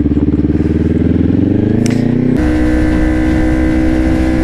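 Kawasaki Ninja 400 parallel-twin engine under way, its pitch rising steadily as the bike accelerates. About two and a half seconds in, the engine note changes abruptly, as at a gear change, and it then runs steadily under a rush of wind.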